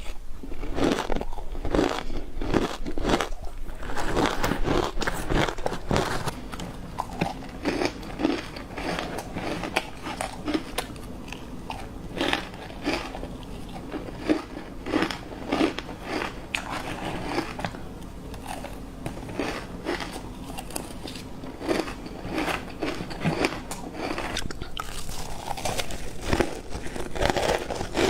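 Ice being bitten and chewed close to the microphone: a run of crunching and crackling as the cubes break up between the teeth, busiest in the first few seconds.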